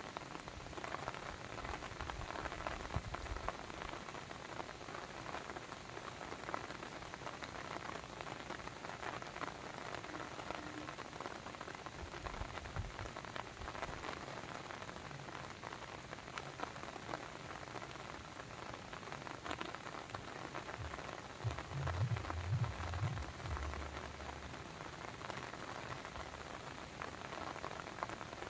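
Water sound: a steady, dense patter of small drops and splashes. A brief low rumble comes about three quarters of the way through.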